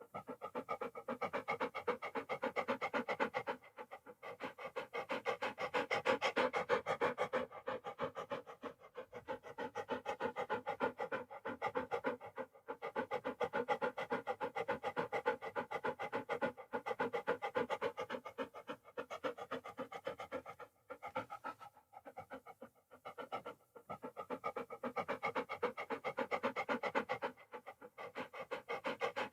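Dog panting: long runs of quick, even breaths, broken by short pauses every few seconds.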